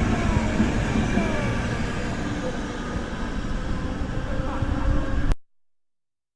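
Train noise: a steady rumble with faint tones on top, which cuts off abruptly about five seconds in.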